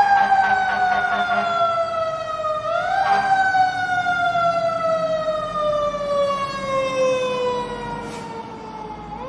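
Police car siren wailing: a tone that falls slowly, sweeps quickly back up about three seconds in, falls slowly again, and starts rising once more near the end.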